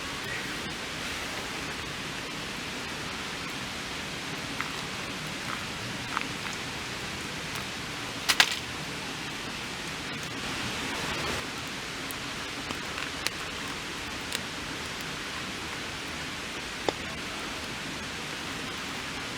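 Steady hiss of rain, with scattered sharp clicks and taps over it; the loudest is a quick double knock about eight seconds in.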